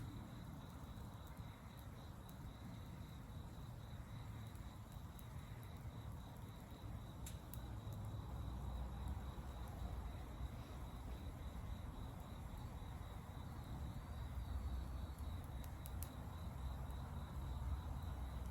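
Insects, likely crickets, trilling steadily on one high note over a constant low rumble, with a few faint sharp clicks.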